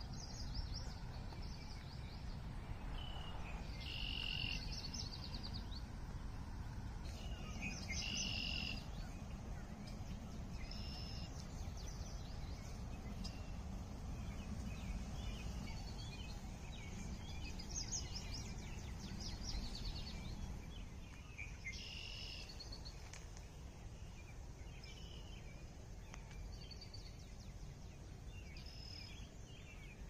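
Songbirds singing short, repeated phrases every few seconds over a steady low background rumble.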